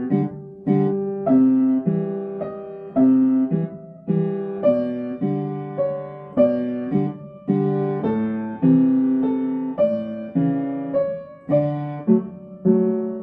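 Piano playing a slow song melody in the right hand over a simple chordal left-hand accompaniment, each note struck and then fading.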